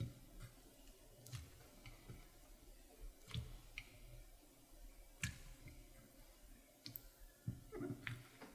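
Clear slime being worked by hand, making faint sticky clicks and soft squishy pops every second or two.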